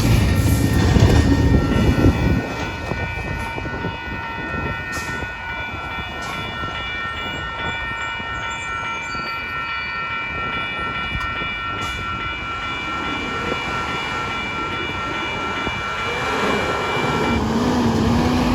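Passing freight train's rumble, which drops off about two seconds in as the end of the train goes by. A long, steady, high, several-note tone then holds and cuts off sharply near the end, when a road vehicle is heard speeding up.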